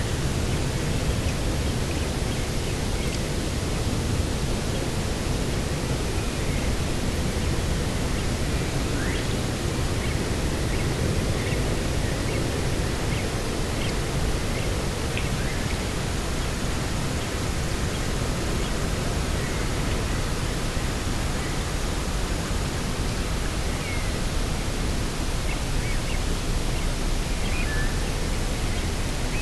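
Steady wind rushing, with faint high bird chirps now and then.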